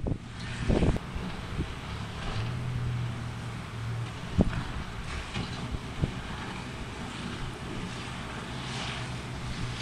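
Engine of a rigid inflatable boat running steadily under way, with wind noise on the microphone and a few sharp thumps.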